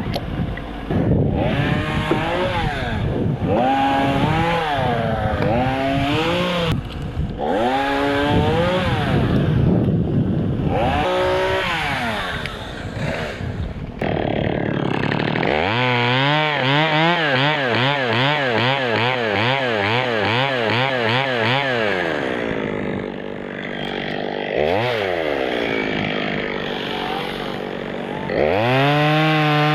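Two-stroke chainsaw revving and cutting birch wood, its pitch rising and falling with the load. It drops back about three-quarters of the way through, blips once, and revs up again near the end.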